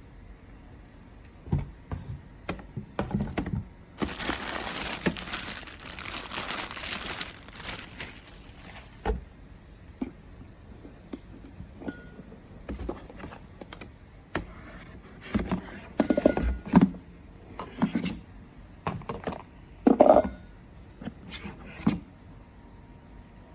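Handling noises: about four seconds of crinkling, like plastic packaging, then scattered knocks and clicks as plastic parts are handled.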